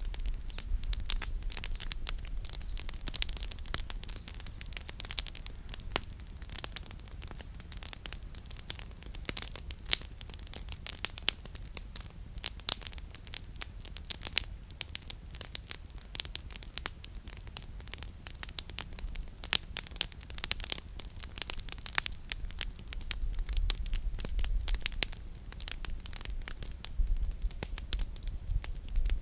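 Wood campfire crackling, with frequent sharp pops and snaps from the burning firewood. A steady low rumble runs underneath.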